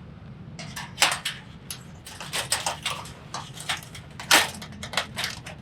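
Hard objects being handled and set down: a run of irregular sharp clicks and knocks, the loudest about a second in and again past four seconds in, over a steady low hum.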